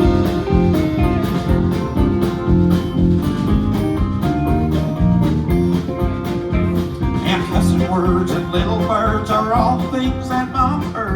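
Live country band playing the opening of a song, with guitars over a steady drum beat; a wavering lead line comes in about two-thirds of the way through.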